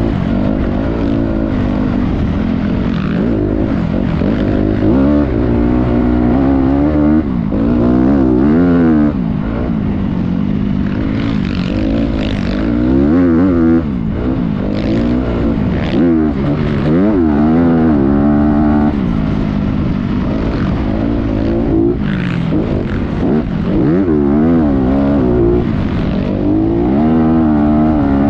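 Motocross dirt-bike engine revving hard and easing off over and over, its pitch rising and falling about once a second.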